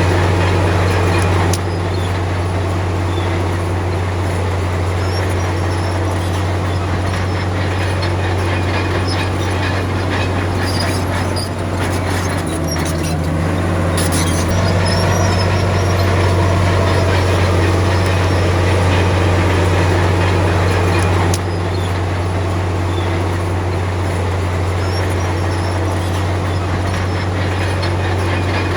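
Komatsu D53P crawler bulldozer's diesel engine running steadily under load, with the clanking and squeal of its steel tracks.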